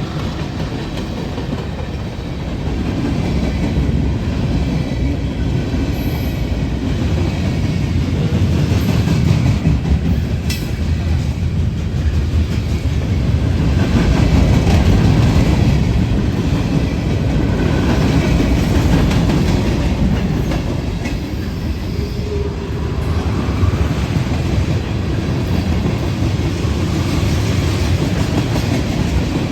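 A train rolling past with a continuous rumble, swelling a few seconds in and staying loud, with no horn.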